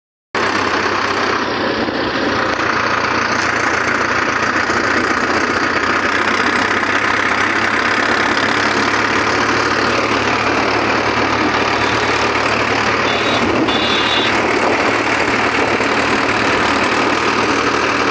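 Sonalika 750 tractor's diesel engine running steadily at idle, with no change in speed.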